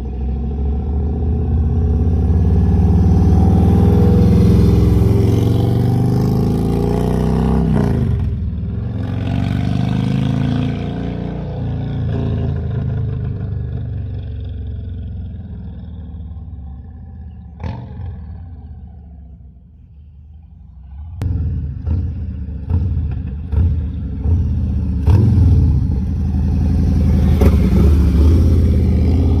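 Harley-Davidson Street Glide Special's Milwaukee-Eight 114 V-twin running through Sharkroad 4.5-inch slip-on mufflers: loud at first with the pitch climbing, then dying away over about ten seconds, then a string of quick, sharp throttle blips in the last eight seconds.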